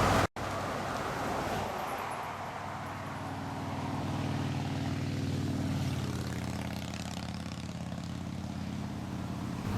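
Maserati Quattroporte's 4.2-litre V8 heard from outside as the car drives, a steady engine note that swells a little a few seconds in and eases back. A brief dropout cuts the sound just after the start.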